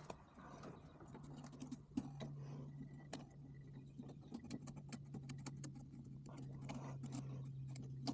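Small clicks, taps and light rattles of parts and tools being handled, over a steady low electrical hum. The hum gets louder just after a sharp click about two seconds in.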